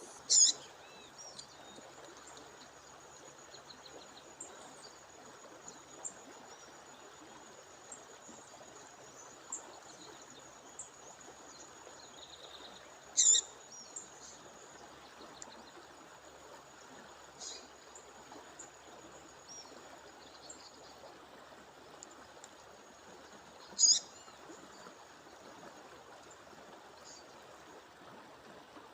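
A female bird giving short, sharp, high calls three times, about ten seconds apart, with a few softer chirps in between. Under them runs the steady rush of a waterfall.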